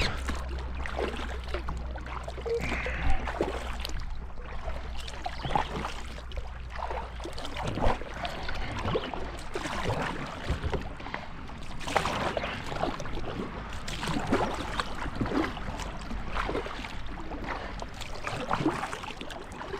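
Kayak paddles dipping and pulling through the water, with irregular splashes and drips from the strokes.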